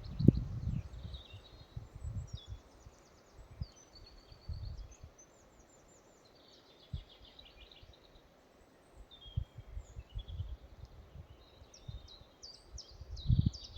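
Songbirds singing in a forest: repeated short chirps and quick high trills throughout. Under them come gusts of low rumble from wind on the microphone, heaviest at the start and again near the end, and nearly gone in the middle.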